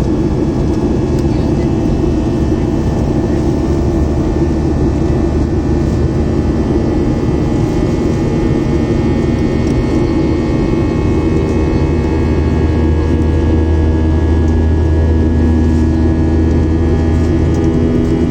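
Steady cabin drone of a Boeing 737-700's CFM56-7B jet engines and airflow, heard inside the passenger cabin, with several steady engine tones over it. A low hum grows stronger about ten seconds in.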